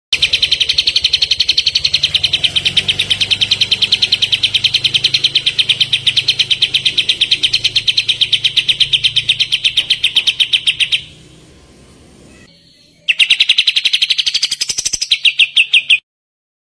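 Songbird giving the rapid-fire 'tembakan' trill used in kapas tembak masteran recordings: a very fast, even run of high chirps for about eleven seconds that breaks off briefly and starts again about two seconds later.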